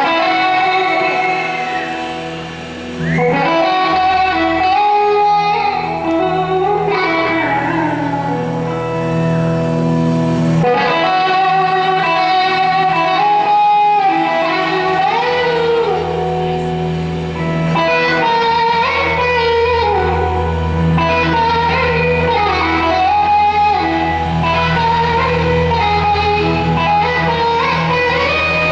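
Live band playing a slow soul-rock song, with an electric slide guitar carrying the melody in notes that glide and bend into each other over sustained bass, which swells about ten seconds in.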